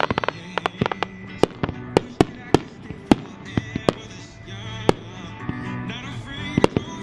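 Consumer firework cake firing: a rapid, irregular string of sharp bangs and cracks, dense in the first few seconds and thinning out after, over background music.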